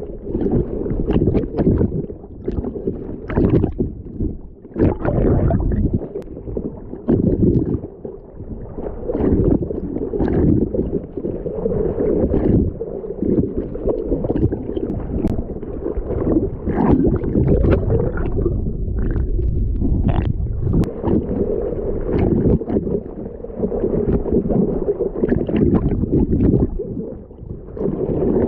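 Ocean water sloshing and splashing around a swimmer's camera in the surf, muffled and deep, with frequent irregular splashes from strokes and kicks.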